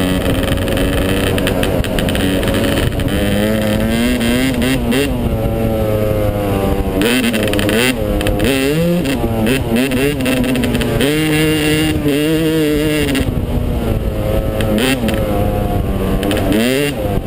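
Yamaha 250 dirt bike engine running under way, its revs rising and falling again and again as the throttle is worked.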